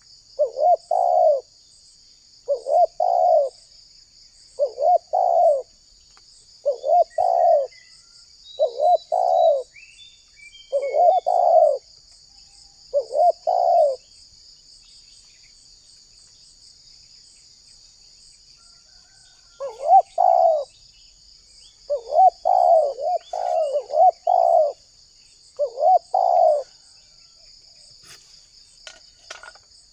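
Spotted dove (tekukur) cooing in repeated phrases, about one every one and a half to two seconds. It pauses for about six seconds midway, then resumes with the phrases closer together, over a steady high insect buzz.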